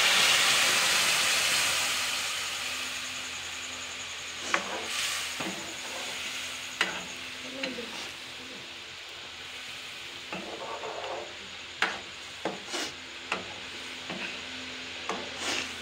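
Wet ground tomato-onion masala paste frying in hot oil in a kadai. A loud sizzle dies down over the first few seconds into a softer, steady sizzle, while a spoon stirring the paste scrapes and clinks against the pan now and then.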